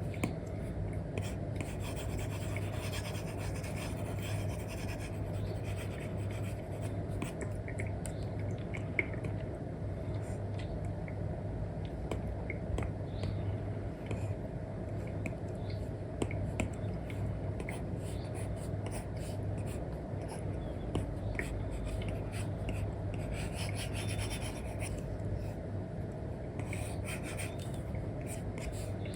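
Stylus tip drawing on a tablet screen covered with a paper-like film: an Apple Pencil 2 with an Elecom nib, making many short scratchy strokes over a steady low hum.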